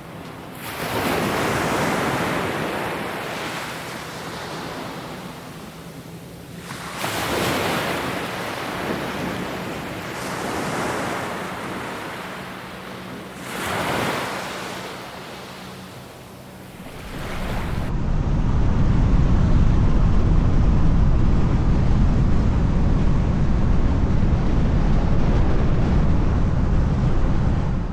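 Sea waves washing onto the shore, swelling and falling back about four times. Partway through, the sound changes to a steady, louder low rumble, like wind buffeting the microphone.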